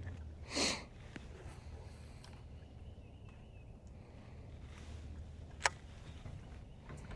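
A person sniffs once, sharply, through the nose about half a second in. A single sharp click comes near the end, over a faint low hum.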